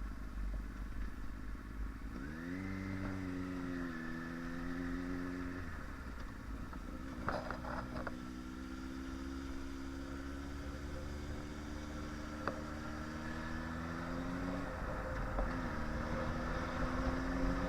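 Sport bike's inline-four engine pulling the motorcycle along. Its pitch rises as it accelerates about two seconds in and drops around six seconds, as at a shift or roll-off. It climbs slowly, drops again near fifteen seconds and rises once more. There is a short clatter about seven seconds in.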